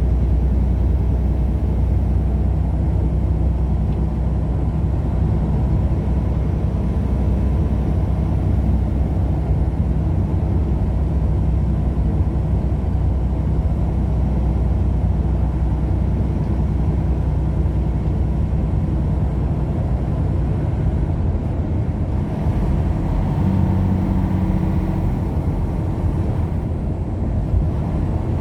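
Steady low rumble of a vehicle on the move: engine and road noise, with a slight change in its tone about 23 seconds in.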